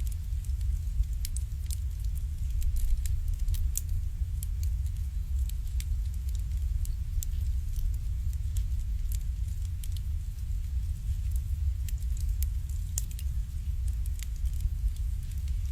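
Wood fire burning in an irori hearth, crackling with scattered sharp pops over a steady low rumble.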